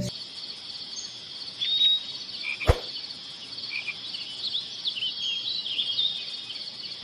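A steady high chirring of insects, with short scattered bird chirps over it and a single sharp click about three seconds in.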